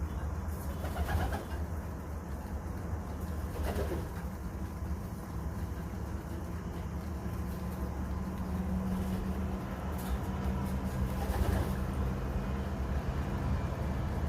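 Pigeons cooing a few times over a steady low background rumble.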